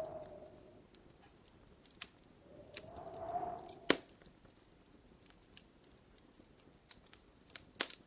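Wood fire crackling in a fireplace: scattered sharp pops and snaps, the loudest about four seconds in and another near the end. Twice, at the start and about three seconds in, a faint tone swells and fades for about a second.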